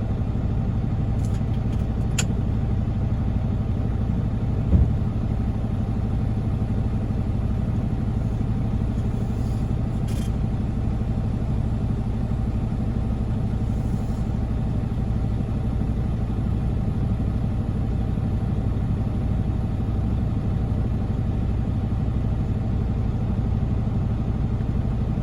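Heavy diesel truck engine running steadily with a low, even drone, during a recovery of a stuck semi truck by a wrecker. A single knock sounds about five seconds in.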